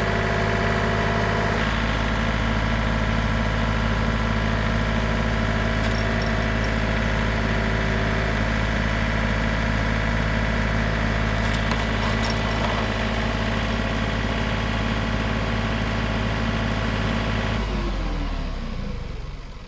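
John Deere 3039R compact tractor's three-cylinder diesel engine running steadily, then shut off near the end, its note falling as it winds down to a stop.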